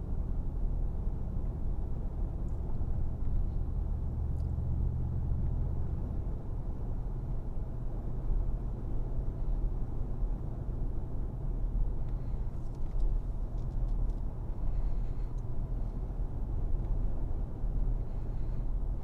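Mercedes-AMG G63's twin-turbo V8 and road noise heard from inside the cabin while driving, as a steady low drone. The engine note changes about six seconds in.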